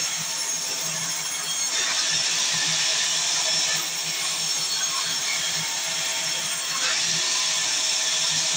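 Sawmill saw cutting mahogany: a steady cutting noise over a motor's low hum. It grows louder about two seconds in, eases, then swells again near the end.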